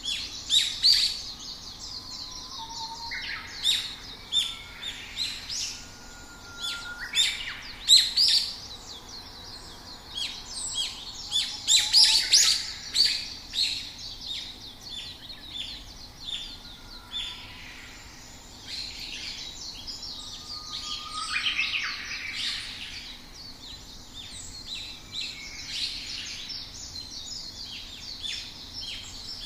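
Several songbirds chirping and twittering, with many short, high calls overlapping throughout and the busiest bursts of song around twelve seconds in.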